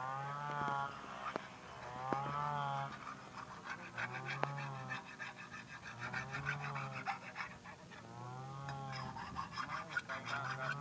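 Small engine-driven rice threshing machine running, its pitch wavering up and down in a regular cycle about every second and a half, with bursts of fast rattling about four seconds in and again near the end.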